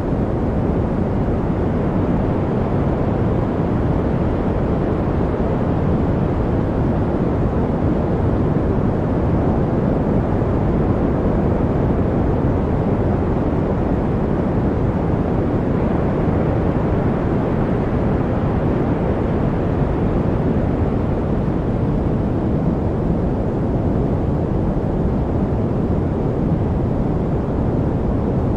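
Steady, unchanging white-noise track, deep and rumbling rather than bright and hissy.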